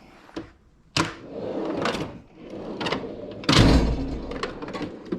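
Tools and parts being handled: a series of sharp clicks and knocks with rustling between them, and a heavier knock with a low thump about three and a half seconds in.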